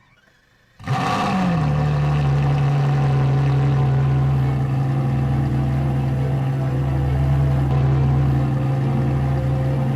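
An engine starts up suddenly about a second in. Its pitch dips briefly as it settles, then it runs at a steady speed.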